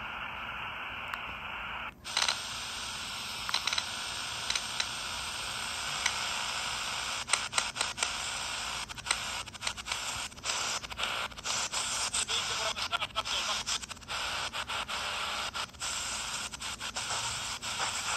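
Miniature shortwave radio's speaker giving steady static hiss, broken by many short crackles and dropouts, with the sound opening up brighter about two seconds in: the weak, noisy shortwave reception of this small set.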